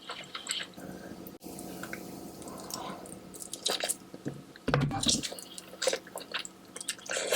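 Wet, saucy eating sounds from a seafood boil: squishing, dripping and smacking as sauce-covered seafood is handled and chewed close to the microphone, with a louder low thud about five seconds in.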